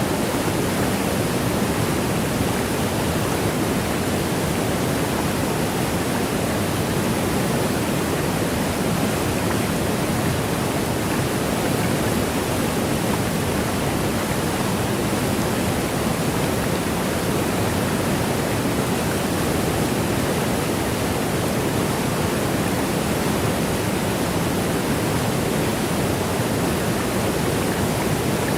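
Waterfall: a steady, even rush of falling water, fullest in its lower range.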